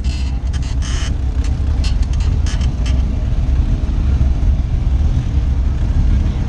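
Engine of a 1933 Ford roadster hot rod running steadily at low speed as the car rolls along, heard from its open cockpit: a deep, even rumble.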